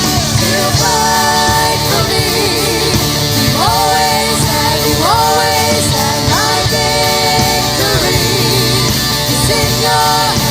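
Contemporary worship song: a singer holding long sung notes over a rock-style band with guitar, loud and steady.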